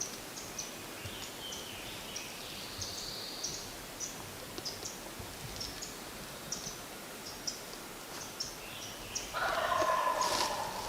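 Wild turkey gobbler gobbling once near the end, a rattling call about a second and a half long, over scattered short songbird chirps.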